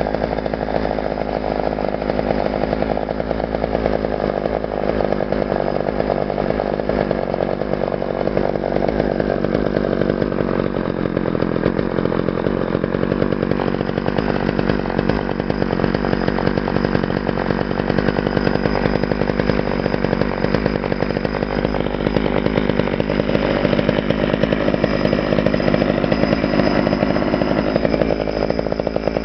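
Homelite 245 two-stroke chainsaw engine running steadily, its speed holding level.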